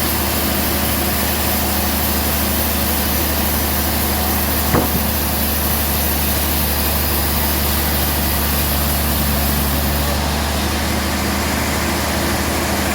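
Band sawmill running with a steady machine hum, with one short knock about five seconds in.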